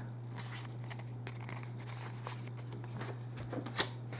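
Faint rustles and scattered light clicks of trading cards and booster-pack wrappers being handled, with a few sharper clicks near the end, over a steady low hum.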